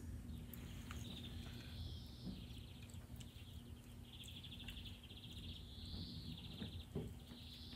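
Small bird singing faintly, a string of high trilling, chirping phrases one after another, over a low steady hum.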